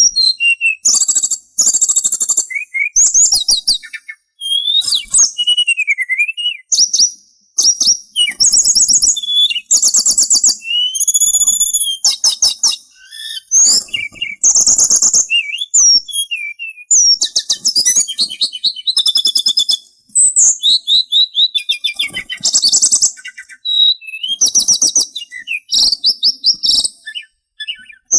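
A sulingan songbird singing: phrases of very rapid high trills a second or two long, separated by short pauses, mixed with a few slower whistled slides.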